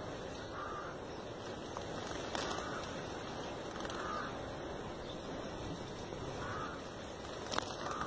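A bird calling with short single calls, four of them spaced about one and a half to two and a half seconds apart, over a steady outdoor hiss. Two short sharp clicks come about two seconds in and near the end.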